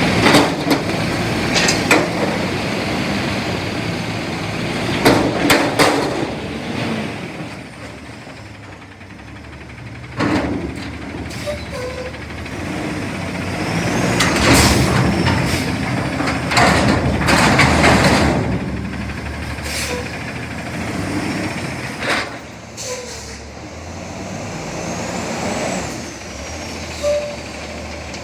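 CNG front-loader garbage truck running, with air-brake hisses and a series of sharp metallic bangs and clanks scattered through, loudest in clusters about five seconds in and again around fifteen to eighteen seconds in.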